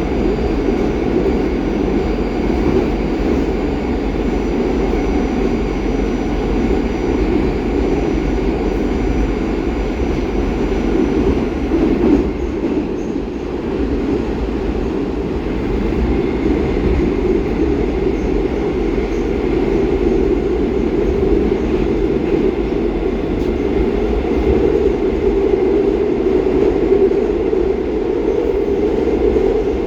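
Inside a St Petersburg metro 'Baltiets' (81-722) train running at speed through a tunnel: a steady, loud rumble of wheels on rail and tunnel noise. A faint high whine stops about twelve seconds in.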